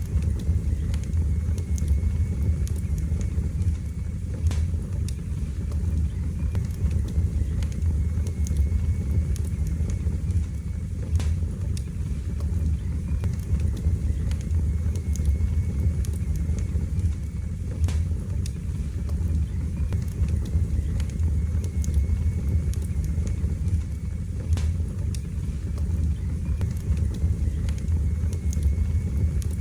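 Fire burning in a fireplace: a steady low rumble of the flames with scattered sharp crackles and pops every few seconds.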